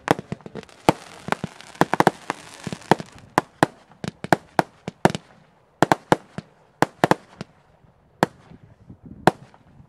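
Aerial fireworks bursting: a quick, irregular run of sharp bangs with a hissing crackle for the first few seconds, thinning out to a few scattered bangs toward the end.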